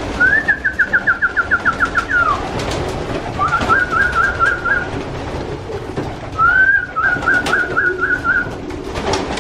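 Racing pigeons cooing low, under three high whistled trills. Each trill opens with a rising note and breaks into a fast warble lasting one and a half to two seconds.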